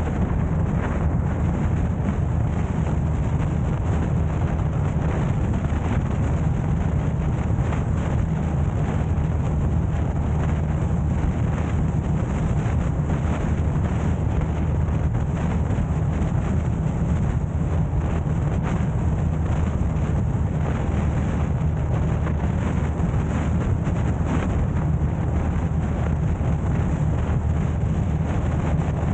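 Steady low rumble of a car driving: road and engine noise, even throughout with no sudden events.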